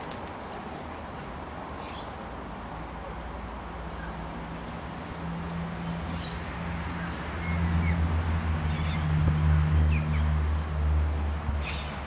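Scattered short, high bird chirps, about seven in all. Under them a low, steady hum comes in about halfway through and is the loudest sound until it fades near the end.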